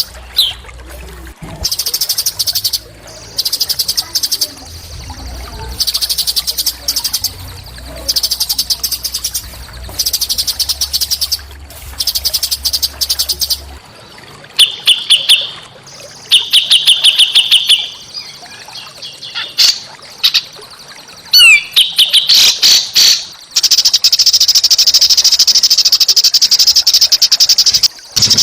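A small songbird's harsh, rapid buzzing trills, repeated in bursts of about a second. Partway through come lower trilled phrases and a few quick sliding whistles, then one long unbroken trill near the end.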